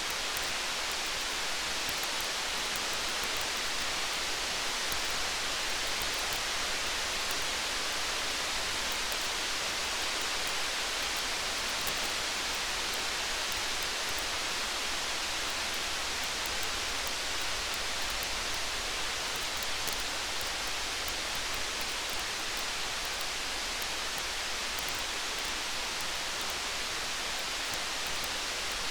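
Steady rain falling in an even hiss, with faint scattered small crackles of a campfire.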